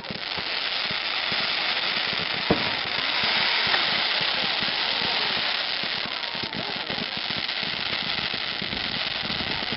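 Fireworks crackling densely and without a break, with one sharp bang about two and a half seconds in. Voices of a crowd are faintly underneath.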